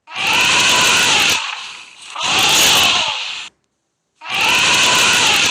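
Elephant trumpeting: two loud, harsh blasts in a row, a short silence about three and a half seconds in, then the trumpeting starts again.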